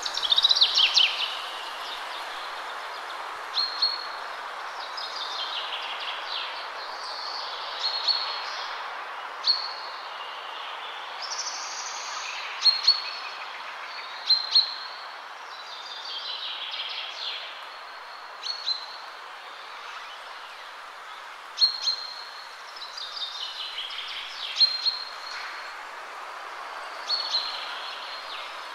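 Birds chirping and calling over a steady background hiss: short, high, repeated notes and quick falling trills every second or two.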